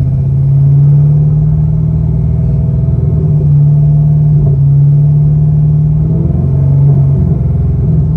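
Corvette C7 Stingray's LT1 V8 through a full aftermarket exhaust, running at steady, moderate revs with a deep, even drone. The pitch wavers briefly about six seconds in, then settles again.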